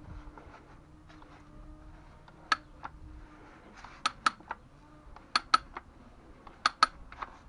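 Sharp metallic clicks of a ratchet pipe threader being worked by hand, mostly in pairs about every 1.3 seconds as the handle is swung back and forth while the lubricated cutting knives bite into the pipe.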